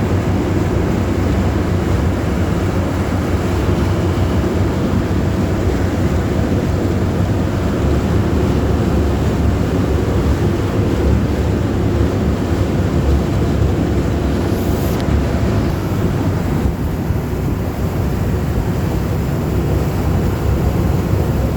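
Amphibious duck boat's engine running steadily under way, with wind buffeting the microphone.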